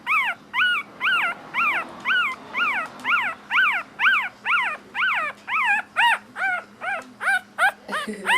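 A puppy whining and crying in a rapid, regular run of short high-pitched cries, each rising then falling in pitch, about two or three a second.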